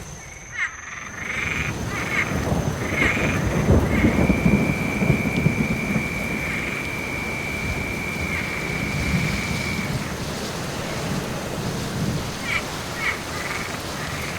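Steady rain with thunder rumbling, swelling about three to seven seconds in, while frogs croak in short repeated calls. A long steady high trill runs from about four to ten seconds in.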